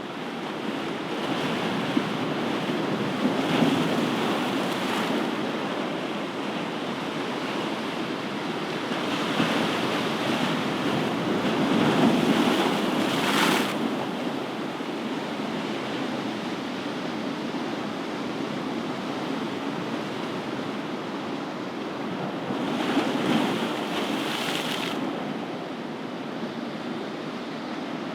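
Ocean surf washing on a shore: a continuous rush of water with three waves building and breaking, about ten seconds apart.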